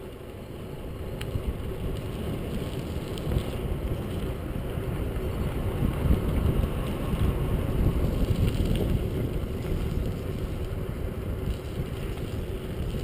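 Wind buffeting the microphone of a moving bicycle, with a low rumble of tyre and road noise. It grows louder over the first several seconds as the ride gets going.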